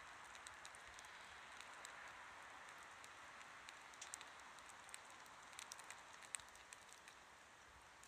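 Wood fire burning quietly: a soft steady hiss with small, sharp crackles and pops scattered through it, a cluster of them around the middle.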